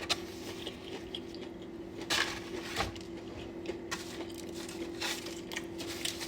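Close-miked eating of fried chicken: scattered crunches and mouth clicks as it is bitten and chewed, over a faint steady hum.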